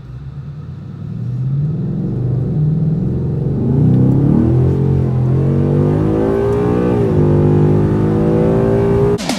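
2018–2019 Ford Mustang GT's 5.0-litre Coyote V8 running with revs climbing over a few seconds, held high, then dropping sharply about seven seconds in and settling. It is played to demonstrate the engine's 'dreaded tick'.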